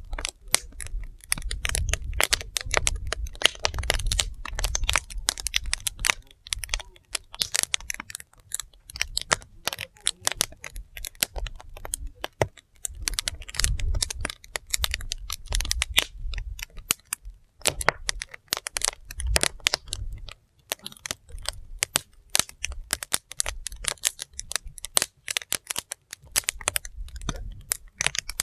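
Wood fire burning: logs crackling and popping in a dense, irregular run of sharp snaps over a low rumble.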